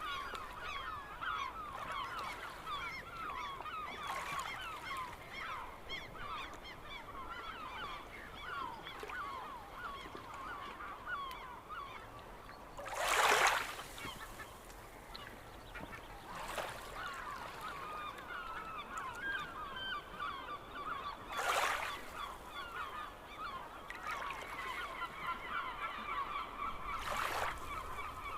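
A large flock of gulls calling all together, a dense continuous chatter of short squawking calls. Four brief loud rushing noises break in about halfway, twice more later, and near the end.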